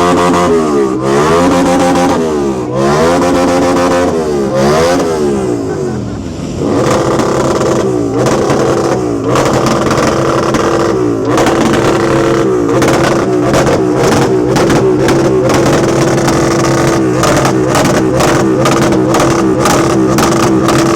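Car engine being revved hard, its pitch swooping up and down several times, then held at steady high revs with a rapid crackle.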